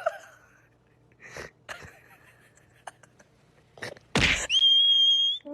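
A sneeze, one short sharp burst about four seconds in after a few faint rustles, followed at once by a steady high whistle-like tone held for about a second.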